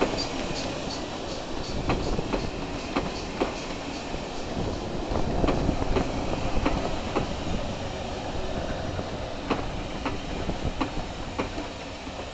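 Passenger coaches of a steam-hauled train rolling past, their wheels clicking irregularly over the rail joints over a steady rumble.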